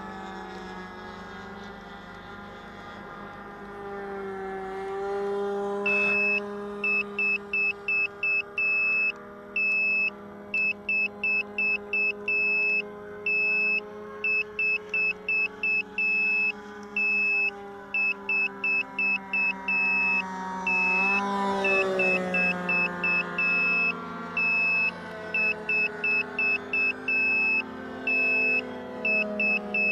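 Small model-airplane engine running, its pitch drifting up and down and rising briefly about two-thirds of the way in. From about six seconds in, a high electronic beeper sounds in quick repeated groups over the engine.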